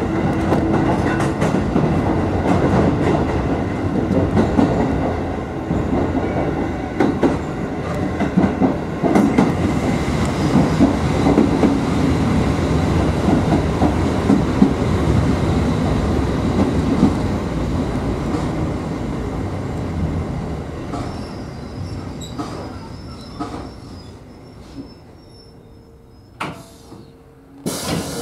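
Kotoden 1100-series electric train heard from its front cab, rolling with wheels clicking over rail joints and points. Near the end it slows for a station and the running noise dies away, with a faint high brake squeal as it comes to a stop.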